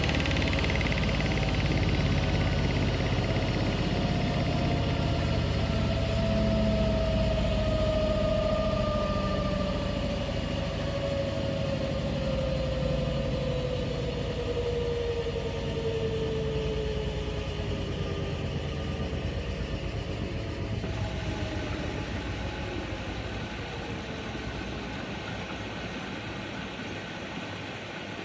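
Washing machine running, its motor whine gliding steadily down in pitch as the drum slows, with a low hum underneath; the sound slowly fades.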